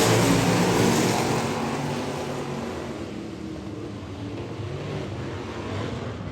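Dirt-track race cars running at speed as the pack passes, loud at first and fading away over the first few seconds to a lower, steady engine drone.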